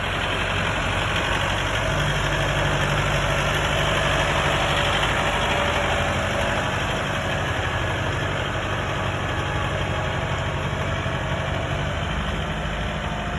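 Kubota 70-horsepower four-wheel-drive tractor's diesel engine running steadily, growing a little louder about two seconds in.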